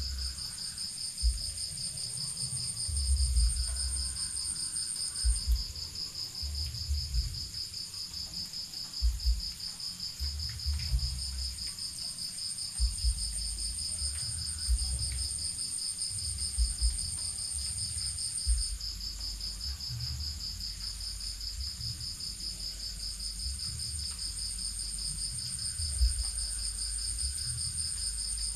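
Crickets trilling in a steady night chorus: one fast, even trill with a second, higher trill over it that breaks off briefly about two-thirds of the way through. Irregular low rumbles and thumps sound underneath.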